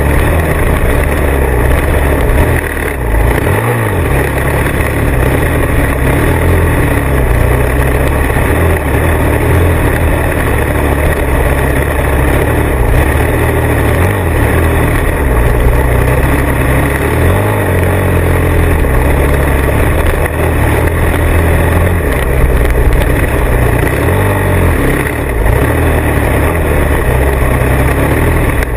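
Motorcycle running under way, loud and steady, with a deep rumble that rises and falls.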